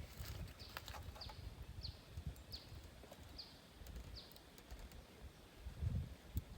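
A bird calling a short falling note over and over, about every two-thirds of a second, for the first four seconds or so, over a low rumble. A low thump near the end.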